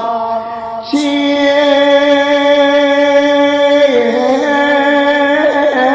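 Male voice singing a long held note in a mournful eulogy chant, held steady for about three seconds, then dropping in pitch and wavering near the end.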